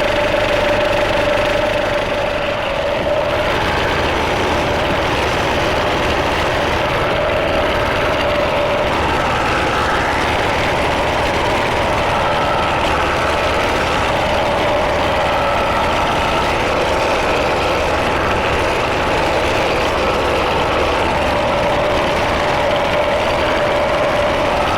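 Tractor engine running steadily, with a whining tone that shifts between a lower and a higher pitch every few seconds.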